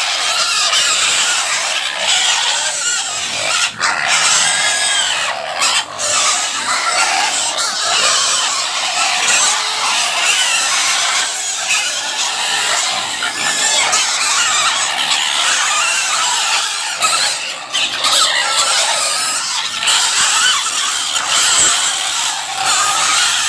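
A pig squealing loudly and almost without pause: a shrill, wavering scream that barely breaks for breath.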